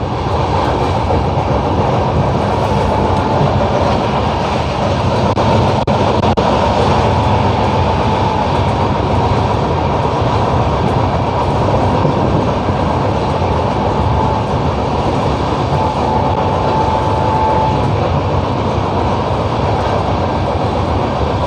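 Passenger train, the Capital Express, running steadily along the track: a continuous rumble and rattle of wheels on rails. A faint thin whine comes and goes over it.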